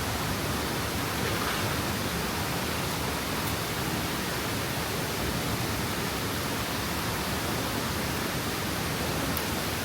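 Waterfall: the steady rush of falling water, an even hiss with no change in level.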